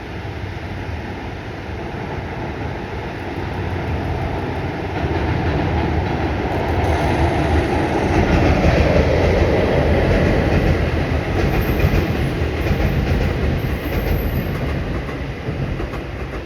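Freight-style train of an EF65 electric locomotive towing Seibu New 101 series railcars passing on the line, growing louder to a peak about halfway through and easing off near the end.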